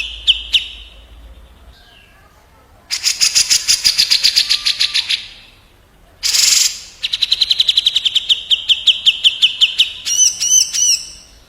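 Cucak jenggot (grey-cheeked bulbul) and kapas tembak birds calling back and forth in fast trills of repeated high notes, with a short harsh rasping note about six seconds in and a few looping notes near the end.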